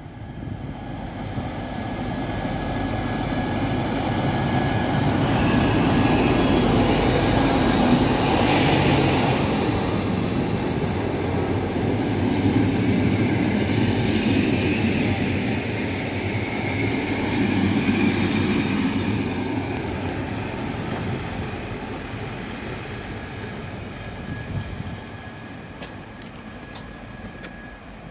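A TEP70BS diesel-electric passenger locomotive and its train of coaches passing at slow speed. The diesel's rumble and the rolling wheels grow to a peak about six to nine seconds in, stay loud while the coaches roll by, then fade as the train moves off. A few sharp wheel clicks over rail joints come near the end.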